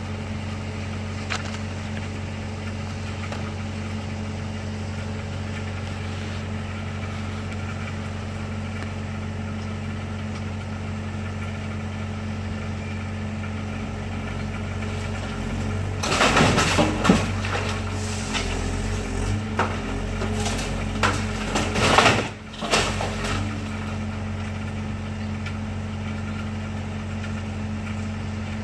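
Engine idling steadily. A little past halfway, several seconds of loud cracking and crashing as an excavator tears down a garage's timber structure.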